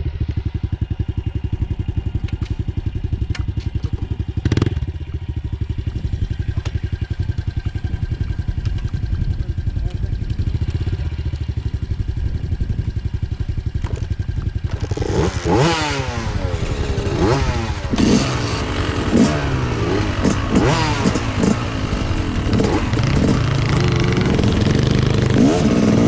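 Small single-cylinder Honda CRF110 dirt bike engine idling steadily, then from about fifteen seconds in revving up and down repeatedly, pitch rising and falling as it rides and shifts.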